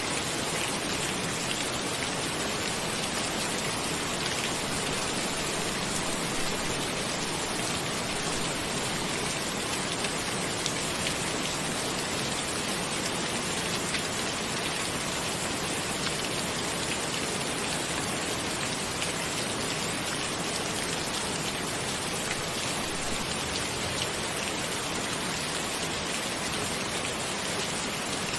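Steady rain falling, an even hiss of many fine drops with faint drop taps scattered through it.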